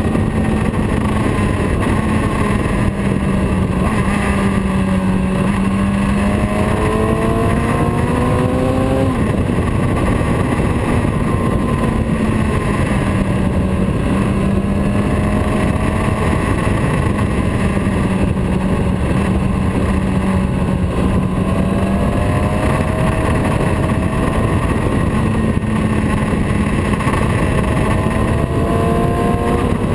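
Motorcycle engine running under way, its pitch climbing steadily for several seconds, dropping sharply about nine seconds in, then rising and easing again, over a steady rush of noise.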